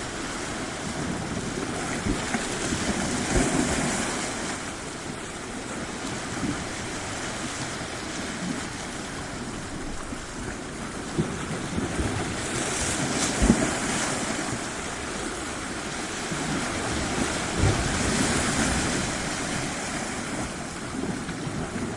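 Waves washing onto a shore in a steady hiss of surf, swelling three times as larger waves break, with a few low thumps of wind on the microphone.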